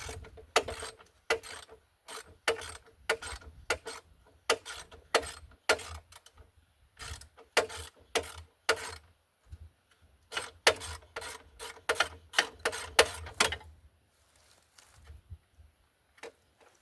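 Hammer blows on steel suspension parts, about two a second with a metallic ring. This is the pounding used to knock a front-suspension joint loose so the coil spring can come out. The hammering stops about 13 seconds in, leaving a few faint knocks.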